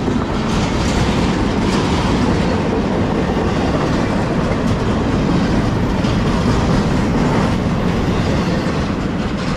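Double-stack intermodal well cars of a freight train rolling past: a steady rumble of steel wheels on rail, with clicks and clacks as the wheels cross rail joints.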